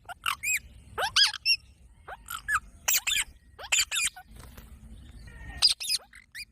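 Green parrot calling: a string of short, high squawks and squeaks with brief gaps between them, pausing for about a second past the four-second mark.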